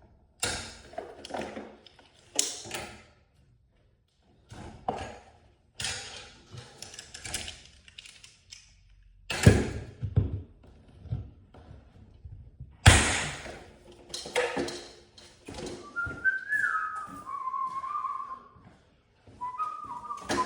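Irregular sharp knocks and clunks from hands and tools working on garage door hardware, the two loudest about nine and thirteen seconds in. From about sixteen seconds a person whistles a short tune over the work.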